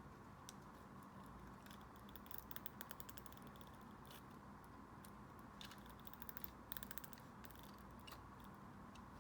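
Faint handling noises of paper and packaging: two short clusters of quick crackles and clicks over a low steady hum, otherwise near silence.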